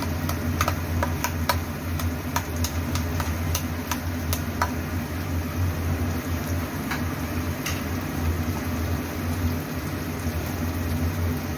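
A cooking utensil clicking and scraping against the pan while the tomato sauce is stirred into the masala, with irregular clicks that come thick in the first half and thin out later. A steady low hum sits underneath throughout.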